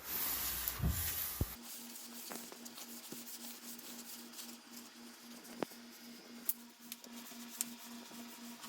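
A rag handling and wiping boiled linseed oil onto a sanded wooden axe handle. There is a rustling burst with two soft knocks in the first second and a half, then faint rubbing and light clicks over a low pulsing hum.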